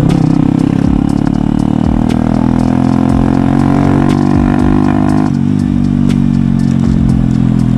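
Motorcycle fitted with an SC Project aftermarket exhaust running at a steady engine speed, a low, even drone with little change in pitch. Part of its tone drops away about five seconds in. The owner says the engine is in very bad shape and blames the exhaust swap.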